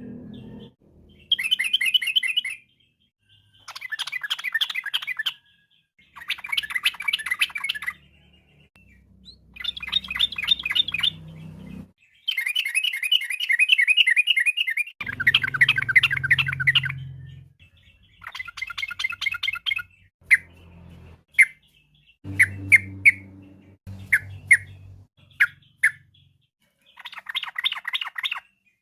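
Yellow-vented bulbul (trucukan) song: repeated bursts of rapid, chattering trilled phrases, each a second or two long with short pauses between, broken near the end by a run of short single notes.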